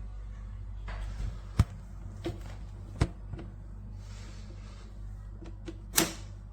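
Several sharp knocks and clicks of objects being handled or set down, the loudest a little after one and a half seconds, at about three seconds and at about six seconds, over a low steady hum.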